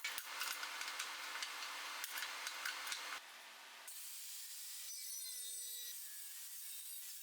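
Rasping, scraping metalwork on steel with scattered sharp clicks, which stops abruptly about three to four seconds in. A fainter hiss follows, with a brief tone that dips and then holds.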